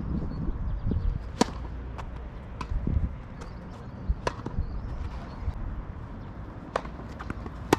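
A tennis rally: sharp pops of the ball struck by rackets and bouncing on the court, about seven of them spaced under a second apart, with a pause in the middle and the sharpest pop near the end.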